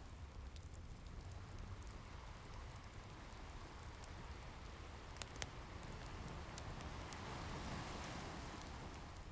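Ocean waves washing in with a low rumble, one surge building near the end, mixed with a wood fire crackling in scattered small pops and one sharper pop about five seconds in.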